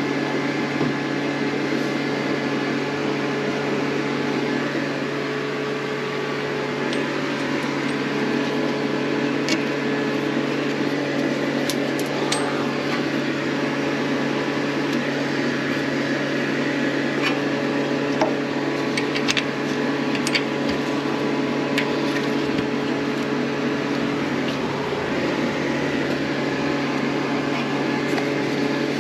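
A steady mechanical hum made of several even tones, like a fan or motor running, with scattered light clicks and taps through the middle of the stretch as hand work goes on.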